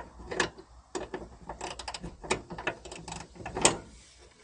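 Hand ratchet wrench clicking in short, irregular strokes as a bolt is worked loose, with a few louder clacks among the clicks.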